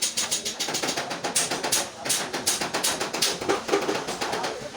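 A quick run of sharp taps, several a second, like light hammering or tapping on a hard surface.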